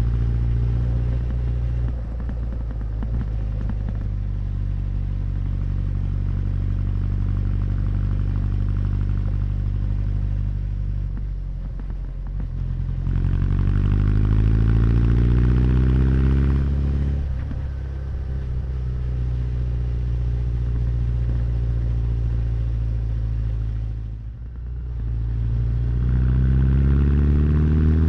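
Honda CB1100's air-cooled inline-four exhaust on the move, mostly holding a steady drone. Twice, about halfway through and again near the end, the revs drop off and then climb as the bike accelerates.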